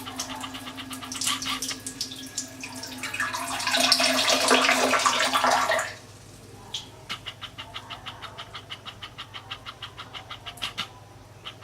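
Water gushing into a toilet bowl for about three seconds, starting about three seconds in and cutting off suddenly. Before and after it comes a rapid run of short clicks or chirps, about five or six a second.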